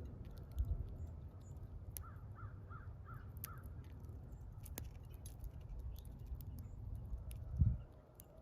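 A bird gives a quick run of five short, identical call notes, with scattered sharp clicks over a steady low rumble. A single low thump comes near the end.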